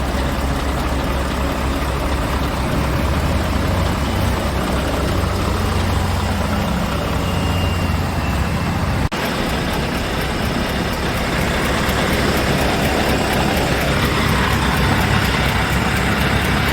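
Scania R tractor unit's diesel engine running steadily. There is an abrupt break about nine seconds in, after which the engine sound continues with a brighter tone.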